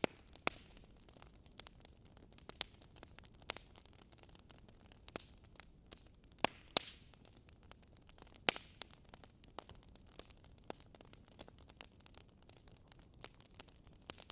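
Wood fire crackling: irregular pops and snaps over a soft steady hiss, with a few louder snaps around the middle.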